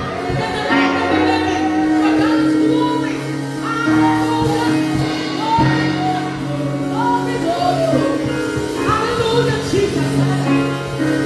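Church worship music: voices singing over sustained, held instrumental chords.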